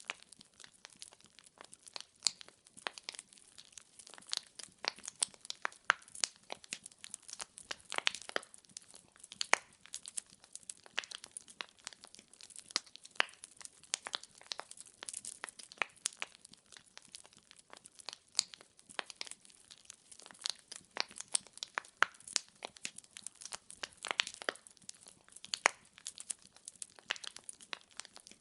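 Wood fire in a fireplace burning steadily, its logs crackling and popping in irregular snaps, many a second, over a faint hiss.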